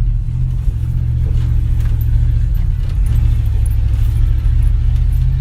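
1984 Dodge Ram pickup driving with a bed full of lumber, its engine running with a steady low drone.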